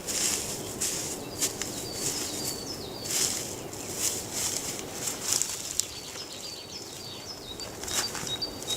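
Irregular rustling and a few sharp clicks, with a small bird chirping over and over in short, high, falling notes.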